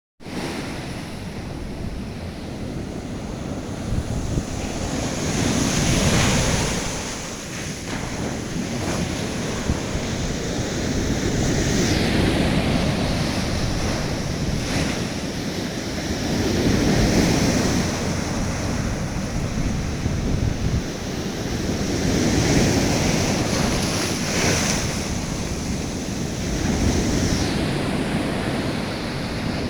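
Storm-driven sea waves surging and breaking, with strong wind buffeting the microphone. The surf swells louder and falls back about every five seconds.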